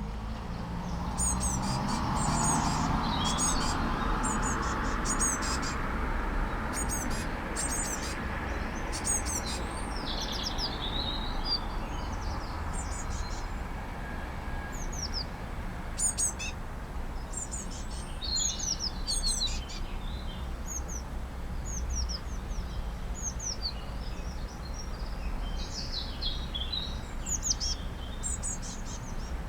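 Blue tits calling, the fledgling begging as its parents feed it: thin, high chirps and short falling notes in quick clusters, over a low steady rumble.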